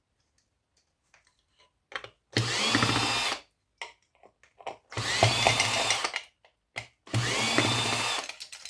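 Small cordless power driver backing out Phillips screws, run in three short spurts of about a second each. Each spurt rises in pitch as it spins up and then holds steady, with faint clicks of handling between.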